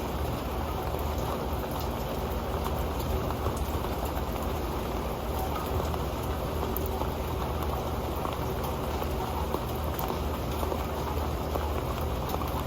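Steady rain falling onto an old metal pan, a dense patter of drops with a faint low hum beneath it.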